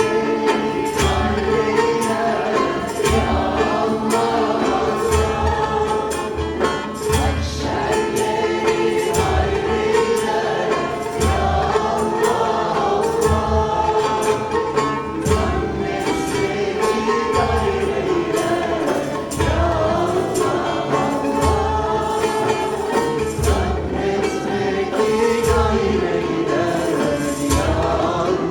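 A group of voices singing a chant together over a steady hand-drum beat with jingles.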